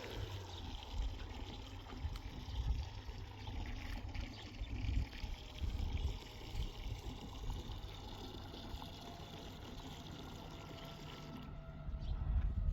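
Water trickling, over an uneven low rumble.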